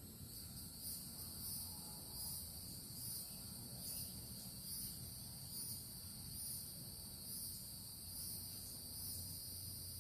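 Insect chorus: a steady high-pitched trilling that swells in soft pulses a little more than once a second.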